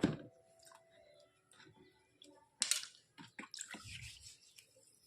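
White slate-pencil sticks being washed by hand in water: a clink with a short ringing tone at the start, then small taps, splashes and drips.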